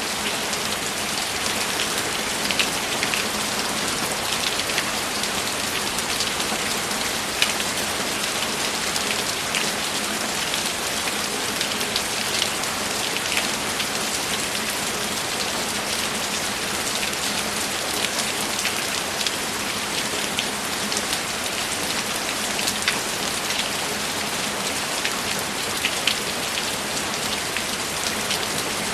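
Steady rainfall, an even hiss with many individual drops tapping sharply and close by.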